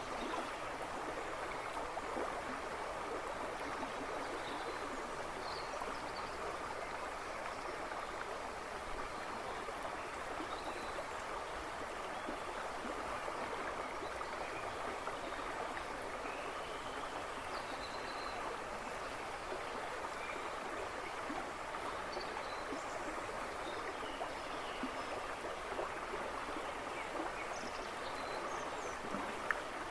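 A river rushing and babbling over stones in a steady wash of water noise, with a few faint bird chirps scattered over it.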